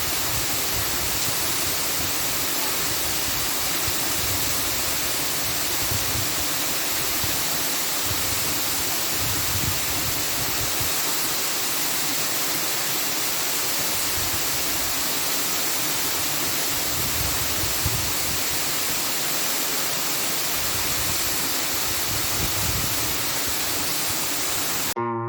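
Steady rushing noise with an uneven low rumble. It cuts off abruptly near the end, where guitar music starts.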